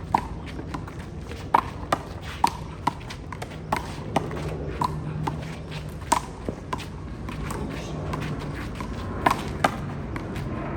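Rubber handball rally: a quick, irregular string of sharp smacks as the ball is struck by hand and rebounds off the wall and court, many of them with a brief ping.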